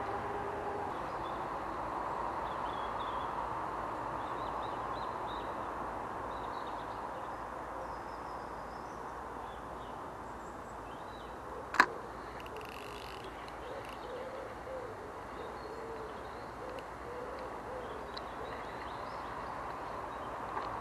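Birds calling over a steady background hiss: a low, wavering call repeated several times in the second half, and faint high chirps from small birds throughout. A single sharp click about halfway through is the loudest sound.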